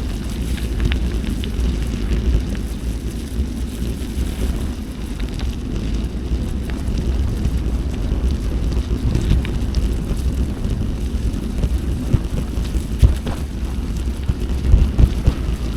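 Wind buffeting the microphone of a moving bicycle, a steady low rumble, with tyre noise on the gravel trail and scattered short knocks and rattles.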